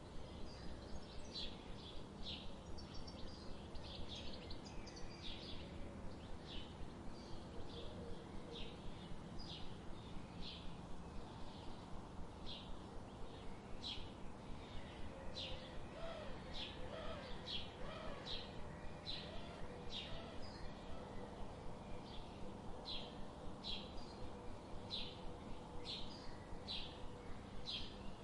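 Birds chirping over and over in short, high chirps at a fairly even pace, with a few lower calls about midway.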